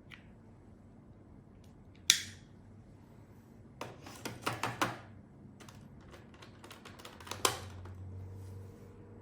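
Hard plastic clicks and knocks from a Nescafé Dolce Gusto Piccolo capsule coffee machine being handled: a sharp click, a quick run of five or six clicks, then another sharp click, after which a faint low hum begins.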